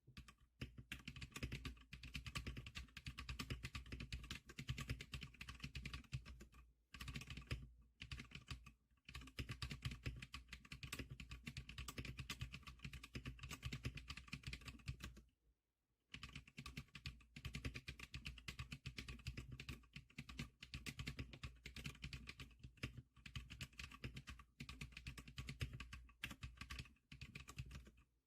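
Typing on the Zikliker SPK100 keyboard: a fast, continuous stream of key clicks, with short pauses and one break of about a second about halfway through.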